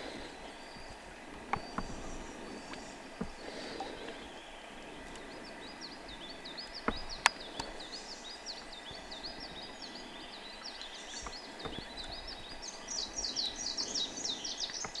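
Outdoor ambience with birds chirping: a rapid string of short, high chirps that grows busier through the second half. A single sharp click sounds about seven seconds in.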